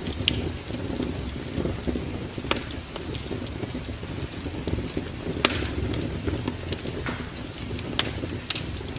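Wood fire burning in a fireplace, crackling and popping irregularly over a steady low rumble, with sharper pops about two and a half and five and a half seconds in.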